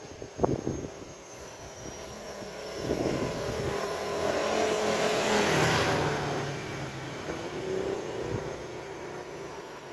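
A motor vehicle passes close by, swelling to its loudest about halfway through and then fading away. A single sharp knock comes about half a second in.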